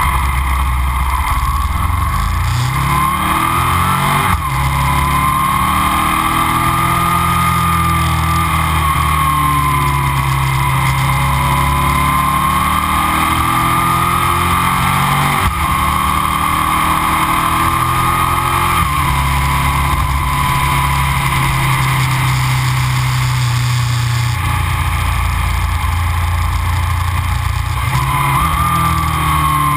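Aprilia RSV 1000's 60-degree V-twin with Arrow aftermarket silencers, heard from a mic on the motorcycle under way: the engine note climbs and falls as it pulls through the bends, with sudden drops in pitch at gear changes about four, fifteen and nineteen seconds in.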